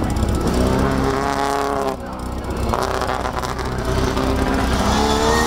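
Classic Mini race car's four-cylinder engine revving hard on an autocross run. The note climbs, drops off sharply about two seconds in, then holds and climbs again near the end.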